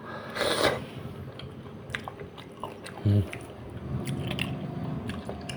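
Close-miked mouth sounds of a person eating soft, fatty braised catfish belly: a noisy bite about half a second in, then soft wet chewing with small clicks and smacks, and a brief low hum about three seconds in.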